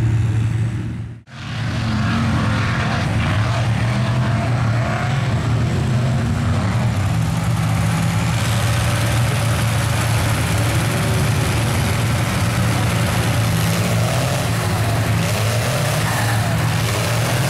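Big off-road truck engine running with some revving over a steady low rumble; the sound drops out for an instant about a second in.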